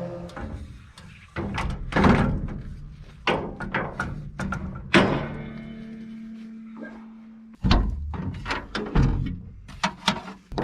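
A series of loose metal clunks and knocks from fuelling gear being handled on the combine's fuel tanks, with a steady low hum for a couple of seconds in the middle.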